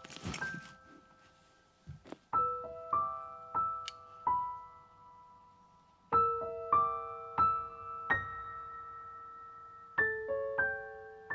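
Background solo piano music: a slow, gentle phrase of single notes and chords, each struck and left to ring and fade.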